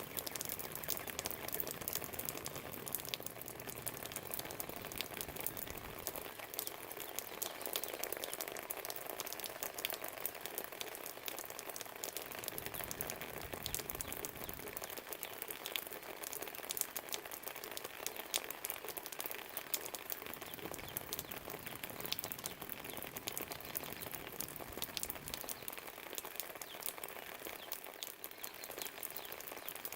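Steady rain pattering, with many small sharp drip ticks close by. A low rumble comes and goes beneath it, near the start and again about twelve seconds in.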